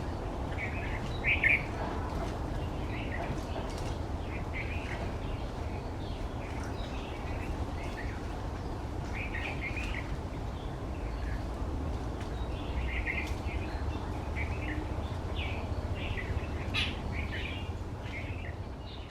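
Birds chirping in short, scattered bursts of high calls over a steady low rumble of background noise. The loudest chirps come about a second in and again near the end.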